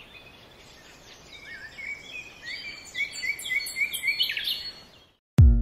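Songbirds chirping: quick runs of short repeated notes that grow louder and then fade out. A plucked-string music track starts right at the end.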